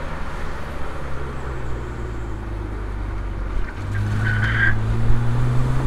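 BMW E90 328i's N52 naturally aspirated straight-six running under road and wind noise, its pitch rising steadily from about four seconds in as the car accelerates. A brief tyre squeal comes as the engine note starts to climb.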